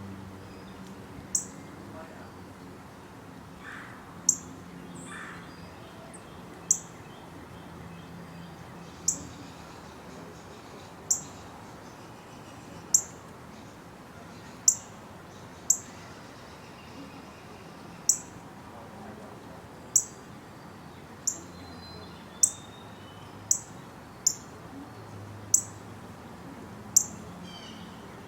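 A small animal's sharp, high-pitched chip call, repeated about every one to two seconds, some twenty times, over fainter background chirping.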